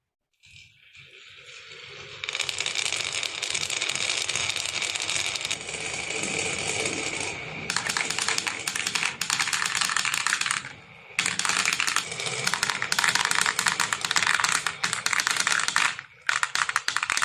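Many marbles rolling and clattering down a marble run track: a rising rolling rumble that turns into dense, rapid clicking about eight seconds in, broken by two short pauses.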